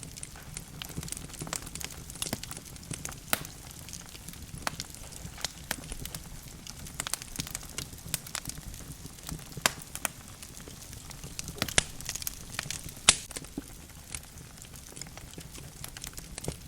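Logs burning in a fireplace, crackling with irregular sharp pops and snaps over a low steady rumble of the fire; the loudest pops come about ten, twelve and thirteen seconds in.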